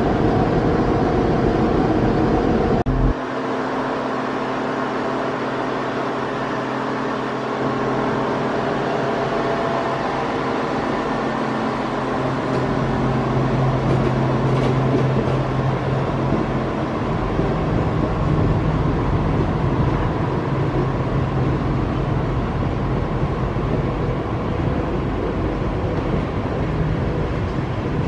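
Spirit of Queensland tilt train pulling out. Its power car's engine runs with a low steady drone that is strongest about halfway through as the power car passes, and the carriages follow rolling by. The sound changes abruptly about three seconds in.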